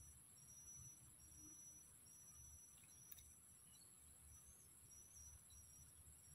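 Faint insects, crickets or cicadas, chirping: a steady high-pitched buzz with a short high chirp repeating about once a second. A single click about three seconds in.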